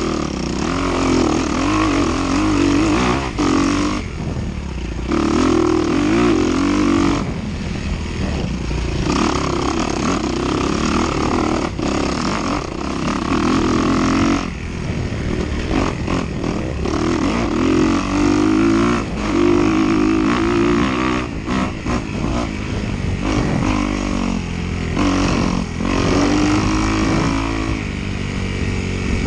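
Dirt bike engine racing over rough ground, the revs rising and falling as the throttle is worked, with brief drops every few seconds where the throttle is shut off.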